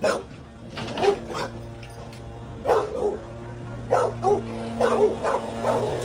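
A dog barking and yipping over and over in short calls, about one or two a second.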